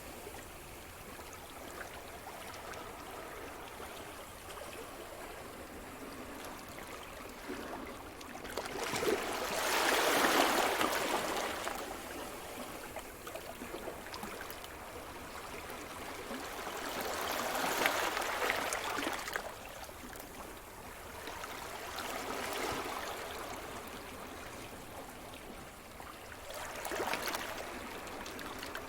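Sea surf: small waves washing onto the shore over a steady wash of water, with four louder surges, the strongest about ten seconds in.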